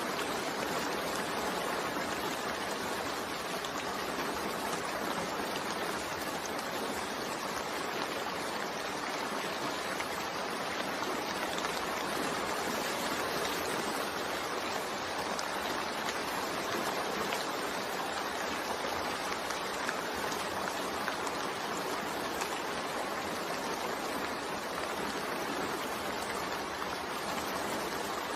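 Steady rain falling, an even hiss of drops with no pauses or separate sounds.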